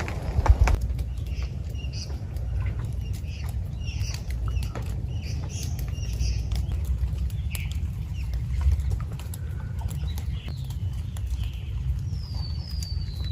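Birds calling in short chirps, with two falling whistled calls near the end, over scattered light taps like dripping water and a steady low rumble.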